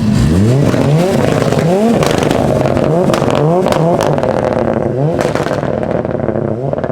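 A tuned car engine is revved hard in quick, repeated blips, its pitch rising again and again, with several sharp exhaust cracks among the revs.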